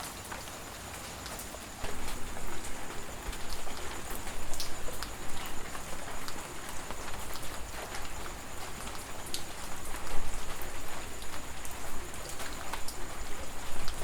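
Rain falling in a steady hiss, with many separate drops pattering and dripping. It turns suddenly louder and more uneven about two seconds in. A faint steady high-pitched tone sits above the rain throughout.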